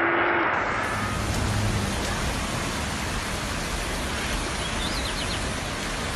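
Steady, even rush of water noise, which begins with an abrupt change in the sound about half a second in.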